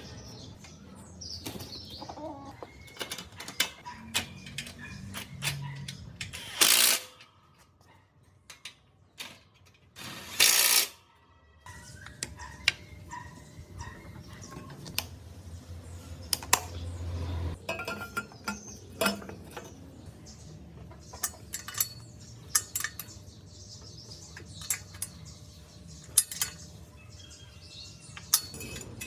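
Metal parts and hand tools clinking and knocking, many irregular sharp taps, with two short loud hissing bursts about seven and ten seconds in.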